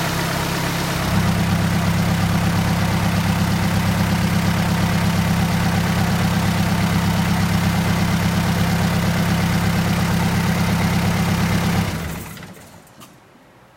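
Hyundai D4BB four-cylinder diesel engine idling steadily. It gets louder about a second in without changing speed, then is switched off near the end and dies away to quiet.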